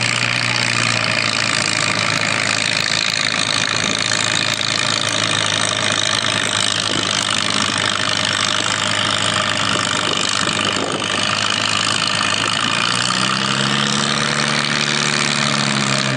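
Farmall 340 tractor engine working hard under load as it pulls a weight-transfer sled. Its pitch rises and then falls near the end.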